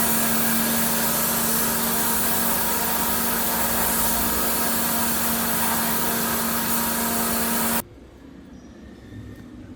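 A steady machine whir with a strong hiss and an even hum, running loud and then cutting off suddenly about eight seconds in.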